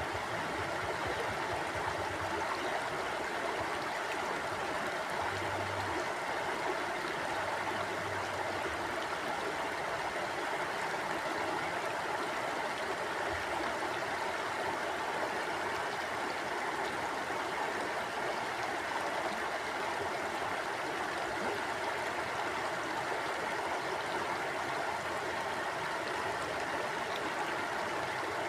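Stream water flowing steadily over rocks, an even rushing with a gurgling texture.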